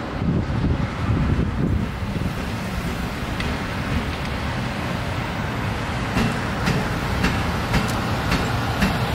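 Freight train of an electric locomotive and towed Seibu 2000 series cars moving off slowly: a steady low rumble, then wheels clicking over rail joints about twice a second in the second half.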